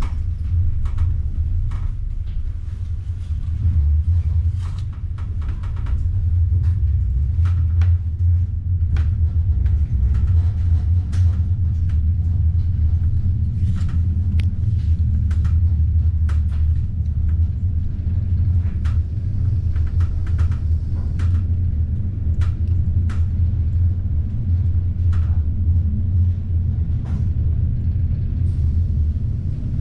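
Low, steady rumble of a moving passenger train heard from inside the carriage, with irregular sharp clicks and knocks scattered throughout.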